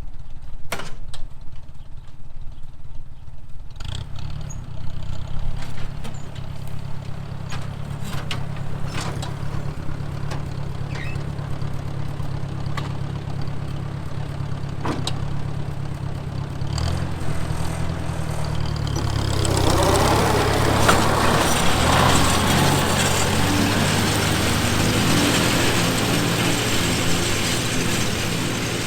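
Ford Jubilee tractor's four-cylinder engine running, picking up about four seconds in. About twenty seconds in, a louder rushing whir joins as the PTO-driven three-blade finishing mower spins up and starts working.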